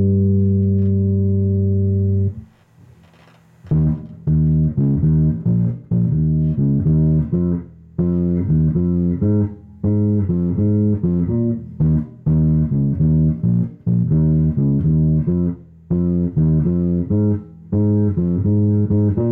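Rickenbacker 4004Cii electric bass with only its treble (bridge) pickup on, played through an Orange AD200B Mk3 valve bass head and 4x10 cabinet. A held note rings out and stops after about two seconds. After a short pause comes a quick, repeating plucked bass riff in short phrases with brief gaps.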